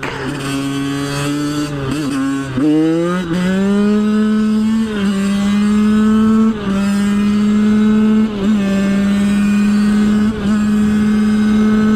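Two-stroke dirt bike engine under way, loud, its pitch climbing over the first few seconds as it accelerates, then holding steady with brief dips every couple of seconds.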